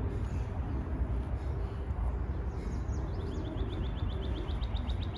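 A small bird's rapid trill of short, high, falling chirps, about seven a second, starting about two and a half seconds in, over a steady low rumble.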